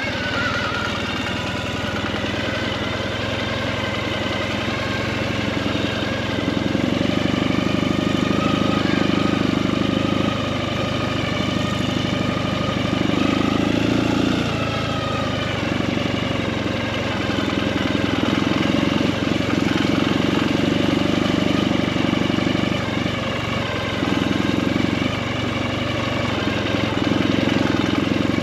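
Motorcycle engine running steadily at low speed on a dirt road, its note swelling and easing off in spells of a second to several seconds as the throttle is opened and closed.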